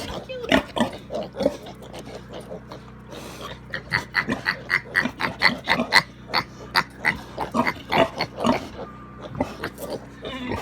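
A sow and her piglets grunting and squealing in a quick series of short calls, about three or four a second, busiest in the middle.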